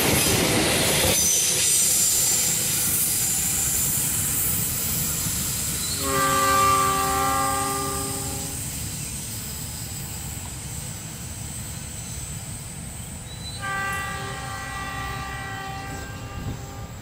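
Passenger train coaches rushing past on the rails, the last of them clearing about a second in, then the rail noise fading away. A locomotive horn then sounds two long, steady multi-tone blasts several seconds apart.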